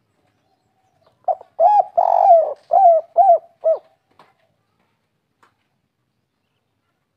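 Spotted dove cooing one song phrase: a few short coos, a longer middle coo, then three short coos, the 'kuk 3' pattern prized by keepers.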